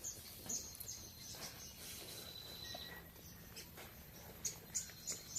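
Faint wildlife calls: repeated short high-pitched chirps and a thin steady whistle lasting a couple of seconds, with a few soft knocks.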